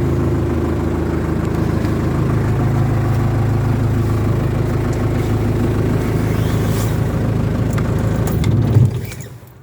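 1989 Ford Transit 2.5 diesel 'banana' engine idling steadily, then dying away near the end after a brief swell.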